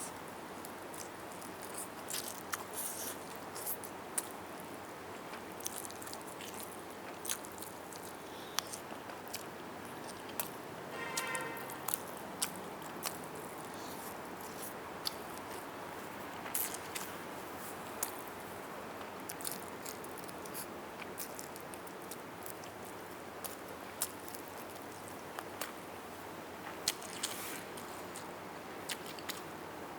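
Close-miked chewing and biting of roast chicken, with scattered sharp clicks and smacks from mouth and teeth over a steady background hiss.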